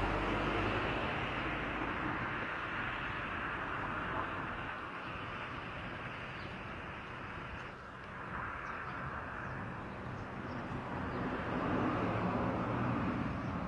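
Steady outdoor background noise, a low rumble with hiss that slowly swells and eases, with no clear birdsong standing out.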